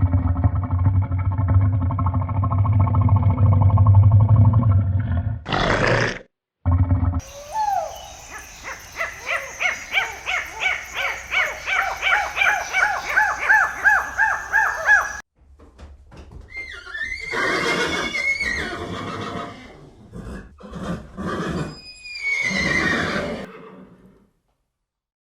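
A run of different animal calls, cut one after another: a low rumbling call for about five seconds, a short burst, then a fast series of short repeated calls, about two a second, for about seven seconds, and finally a few longer calls that fall in pitch.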